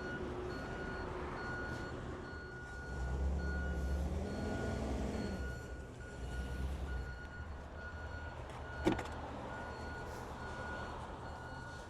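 A vehicle's reverse-warning beeper beeping at an even pace, about one and a half beeps a second, over the low rumble of an idling truck engine that swells twice. A single sharp click comes near the end.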